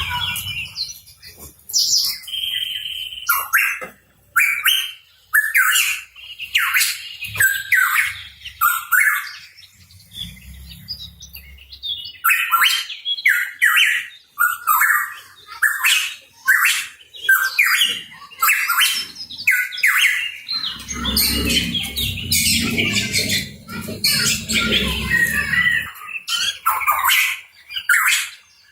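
Pitohui calling: short chirping calls one after another in quick succession, with a low rumble underneath for several seconds past the middle.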